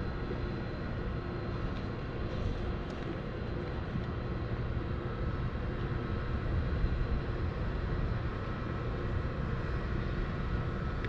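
Steady rumble and wind noise picked up by a bike-mounted camera while riding a bicycle, with no clear separate impacts.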